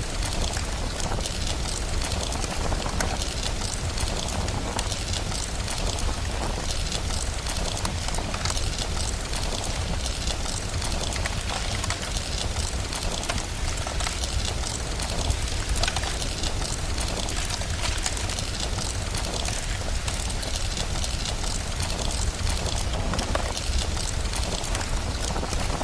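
Steady rain with the crackle and pop of a fireplace throughout, over a constant low rumble.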